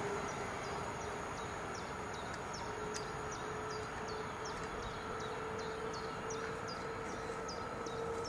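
Steady rumble and hum of a train that has just passed and is receding. Over it, a bird repeats short, high, descending chirps, about three a second.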